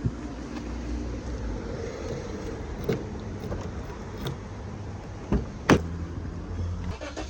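A car's steady low rumble, with a few sharp knocks or clicks over it, the loudest about two-thirds of the way through.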